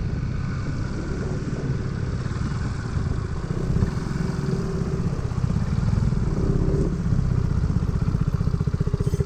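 Motorcycle engine running at low speed, with its firing pulses becoming evenly regular in the second half.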